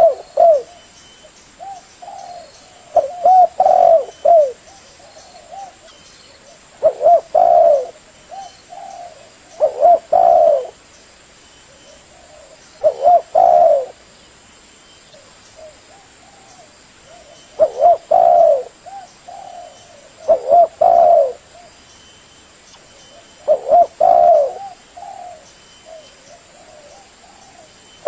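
Spotted dove (tekukur) cooing: about seven short phrases of a few low coos each, repeated every three to five seconds.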